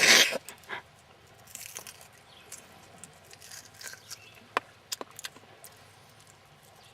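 Wild onion being handled and peeled: faint crackling and tearing of the papery onion skin, with a few sharp clicks scattered through, after a brief rush of noise at the start.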